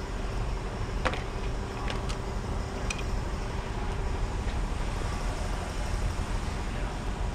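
A few light clicks and taps of test-lead clips and tools being handled, over a steady low rumble.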